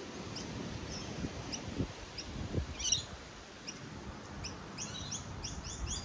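A small bird chirping: short, high, upward-sliding chirps at a steady pace, with a brief flurry about halfway through and a quick run of chirps near the end. A few soft, low knocks come in between.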